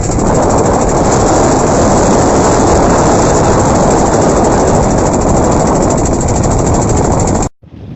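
Strong wind buffeting the microphone: a loud, steady rushing roar that cuts off suddenly near the end.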